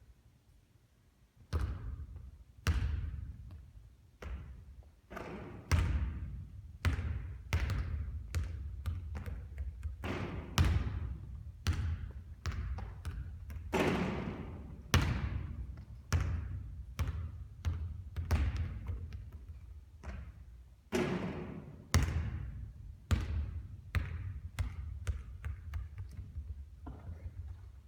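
A basketball repeatedly bouncing and thudding on a court during three-point shooting practice: irregular impacts about one or two a second, starting about a second and a half in, some with a ringing tail.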